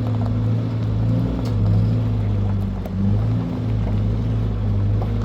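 A motor vehicle's engine running at a steady pace, a constant low drone whose pitch wavers slightly.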